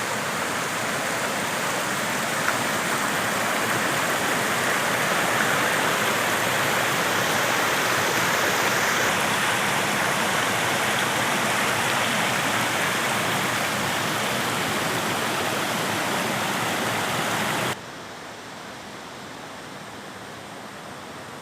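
Steady rush of flowing water, a stream or falls, with no breaks; near the end it drops suddenly to a quieter, steady level.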